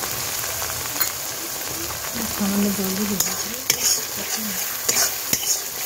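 Onion-and-spice masala sizzling in hot oil in a metal kadai while a metal spatula stirs it. The spatula scrapes and knocks against the pan about a second in and several times in the second half. This is the masala being fried down (bhuna) just after salt and turmeric go in.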